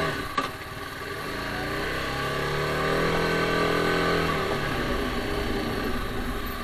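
TVS Apache RR310's single-cylinder engine revving up and then easing back down, with a sharp click just after the start.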